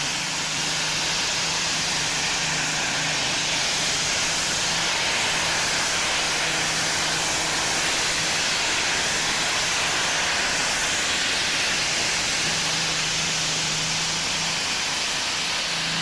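A pulling tractor's engine running flat out under load during a pull, a loud, steady exhaust roar that holds an even pitch throughout.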